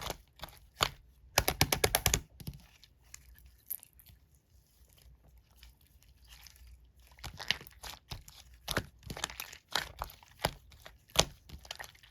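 Slime being squished and stretched by hand, making sharp crackling pops and clicks: a quick run of loud pops about a second and a half in, a quieter stretch, then scattered pops again, the loudest near the end.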